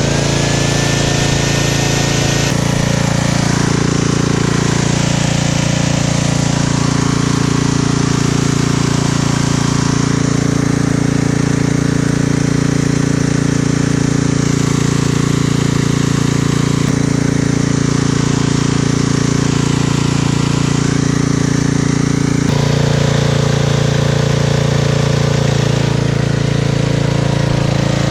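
Hammer drill coring through a concrete wall, running continuously under load. Its tone changes about two and a half seconds in and again several seconds before the end, as the load on the bit shifts.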